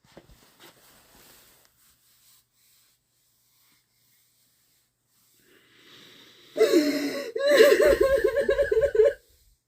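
A woman sobbing: faint gasping breaths, then two bursts of loud wailing cries with a wavering, trembling pitch over about three seconds near the end, breaking off abruptly.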